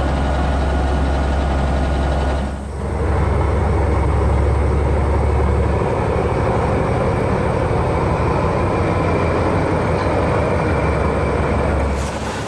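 Heavy quarry machinery running steadily, a loud, dense mechanical noise over a deep low rumble, with a brief dip about two and a half seconds in.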